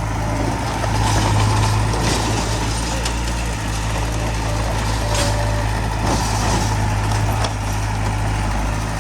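Heavy diesel engine of earthmoving machinery running steadily with a deep, even hum, and a few short hisses and clicks over it.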